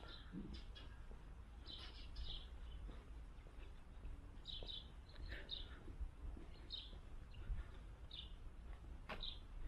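Small birds chirping: short high calls repeated every half second to a second, over a low steady background rumble.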